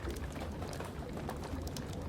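Wood fire crackling in a fireplace, with frequent sharp irregular pops, over steady rain and a low rumble.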